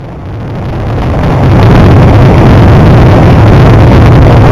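Fireworks barrage: many aerial shells bursting in quick succession, building over the first second and a half into a continuous rumble of bangs that pushes the recording to its limit.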